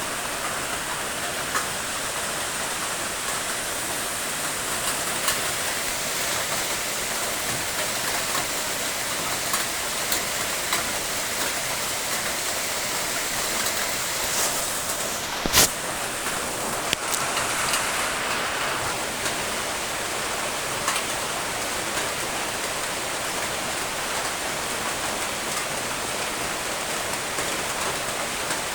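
Steady rain: an even hiss with scattered drop ticks, and one sharp click about halfway through.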